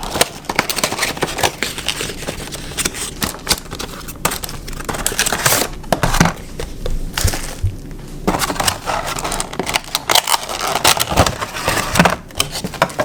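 Die-cast model's cardboard box and plastic packaging being opened and handled: a busy run of crackles, clicks and scrapes.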